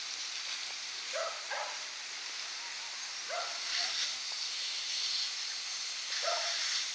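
Steady hiss of lawn sprinkler heads spraying, with a dog barking about five times over it in short bursts.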